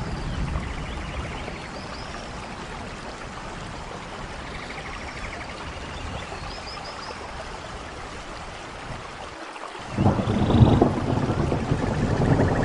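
Steady rain falling, joined about ten seconds in by a sudden, louder low rumble of thunder.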